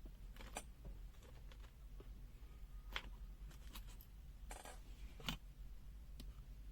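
Faint scattered clicks and a brief light scrape of small plastic parts being handled and prised apart, as a multimeter's LCD and backlight assembly is taken out of its housing.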